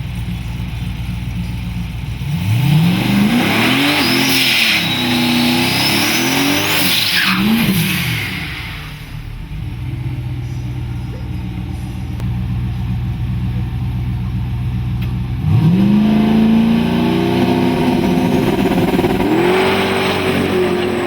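5.3 L LS V8 pickup truck accelerating hard through the gears, the engine note climbing and dropping at each of several shifts. After a steadier stretch it launches again about two-thirds of the way in and shifts once more near the end.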